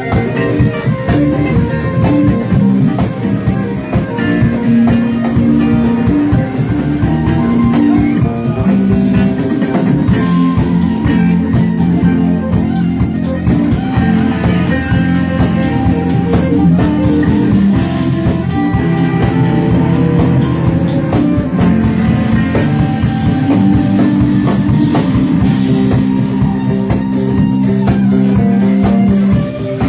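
Live rock band jamming: electric guitar, bass and drum kit playing an instrumental passage, with a brief drop in level near the end.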